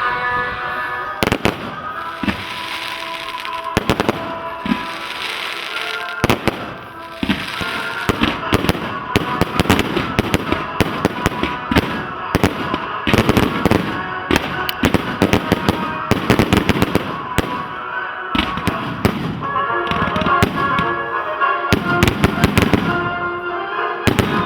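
Fireworks display: a rapid, irregular string of bangs and crackles that grows denser from about eight seconds in, with music playing underneath.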